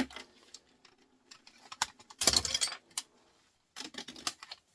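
Loose printer scrap parts, small metal and plastic pieces, clinking and rattling as they are handled by hand, in two bursts of a second or less about two and four seconds in, after a single click at the start.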